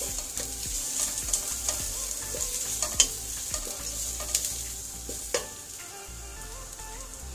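Omena (small dried fish) frying with onion and garlic in oil in a metal pot, a steady sizzle, stirred with a wooden spoon that scrapes and knocks against the pot; the sharpest knock comes about three seconds in. The stirring stops near the end and the sizzle carries on a little quieter.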